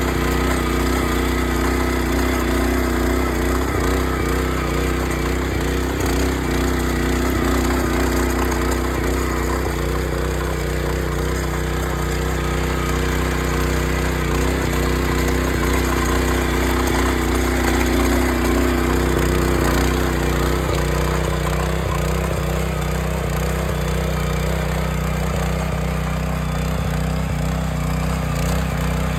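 Small farm tractor's engine running steadily, its note changing about two-thirds of the way through.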